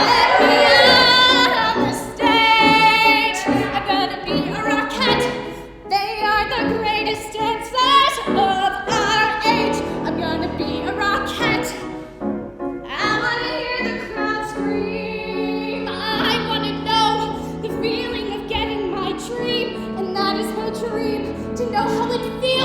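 A woman singing a musical theatre song with accompaniment, with vibrato on the held notes.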